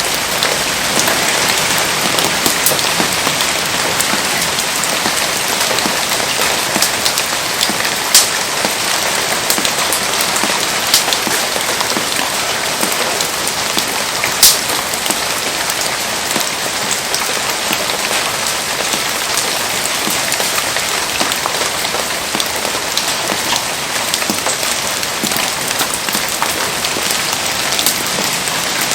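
Heavy rain falling in a steady, dense hiss, with a few sharp pops standing out about a third and half of the way through.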